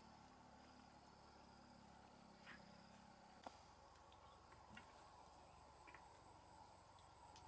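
Faint, steady chirring of insects such as crickets, a high pulsing trill over a quiet rural background, with a few faint clicks, one about halfway through.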